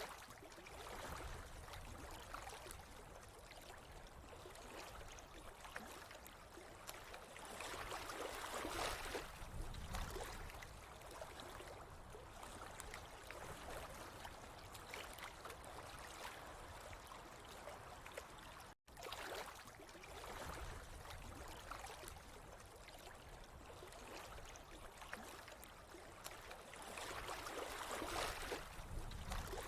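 Faint, steady trickling and gurgling of running water, swelling louder about eight seconds in and again near the end, with a momentary cut to silence a little past the middle.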